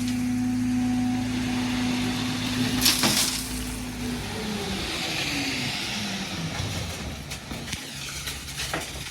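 Heavy diesel engine running at steady high revs, then winding down about four seconds in, its pitch falling over a few seconds. A single sharp knock sounds about three seconds in.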